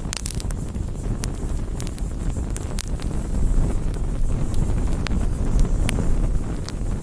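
Campfire burning: a steady low rumble with sharp, scattered crackles and pops of the burning wood, a few of them louder, about a second, three seconds and six seconds in.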